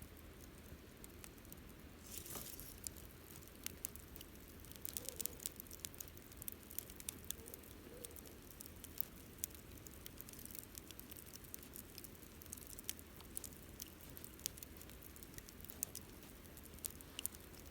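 Campfire wood crackling with irregular sharp pops, over a low hiss, with a brief rush of hiss about two seconds in.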